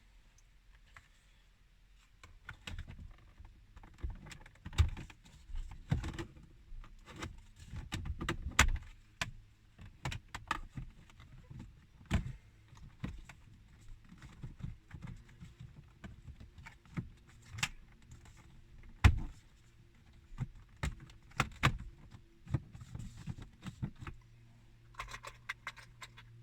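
Irregular clicks, taps and rattles of hand work on a car dashboard: small metal parts, tools and plastic trim being handled, with a few sharper knocks. A low steady hum comes in near the end.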